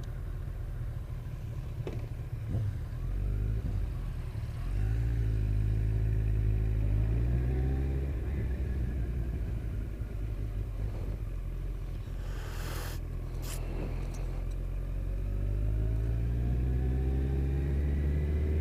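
Kawasaki ZZR1400's inline-four engine under way, pulling up in pitch and stepping down at a gear change about eight seconds in, then climbing again near the end. There is a short rush of noise about twelve seconds in.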